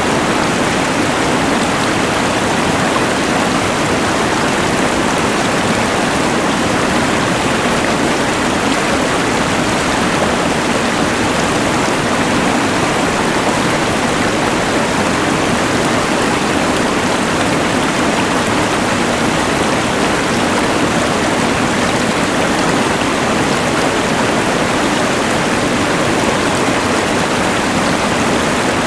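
A rushing mountain river layered with the hiss of a LectroFan white noise machine: a loud, even, unbroken rush of noise that does not change.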